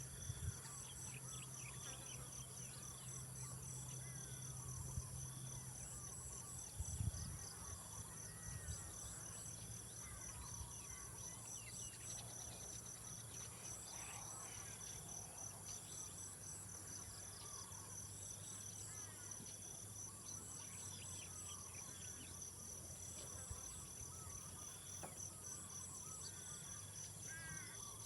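Insects trilling in rapid, steady pulses, with scattered short chirps and a faint low hum underneath. There are a few soft knocks about seven seconds in.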